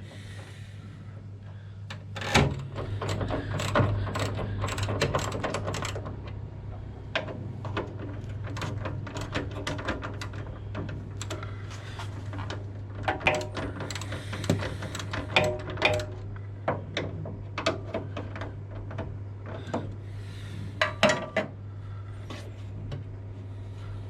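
Hand tools working on car bolts: a run of irregular metallic clicks and clinks, with a sharp knock about two seconds in and a burst of clicks near the end, over a steady low hum.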